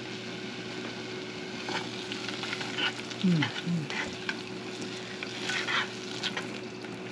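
Green mango sour with ground cumin frying in oil in a small saucepan, sizzling steadily, while a metal spoon stirs it and scrapes the pan now and then.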